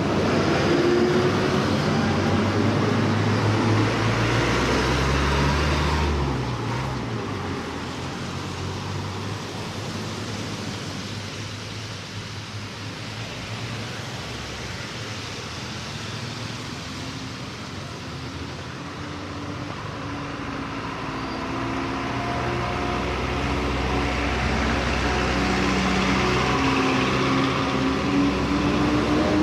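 Street traffic: a motor vehicle's engine runs close by for the first several seconds, then drops away, leaving a quieter steady traffic hum. Engine noise builds again over the last several seconds as vehicles come near.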